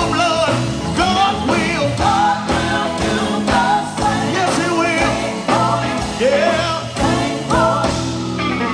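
Live gospel quartet music: a band of electric guitar, bass and keyboard playing with a steady beat, a voice singing over it.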